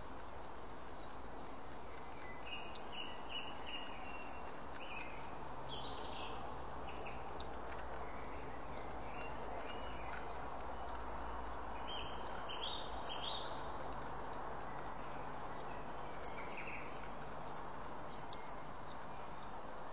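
Steady outdoor hiss with short, high chirps of birds calling now and then in the background, and a few faint clicks.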